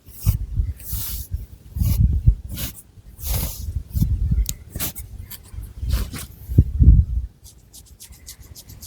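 Long fingernails scratching and rubbing through thick hair on the scalp in repeated strokes, with dull thuds of the hands against the head. Near the end, a run of quick, light ticks.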